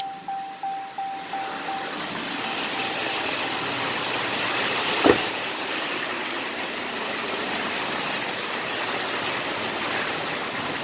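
Heavy rain pelting the car's roof and windshield, a dense steady hiss. For the first couple of seconds a car's warning chime dings about three times a second, then stops, and there is a single knock about five seconds in.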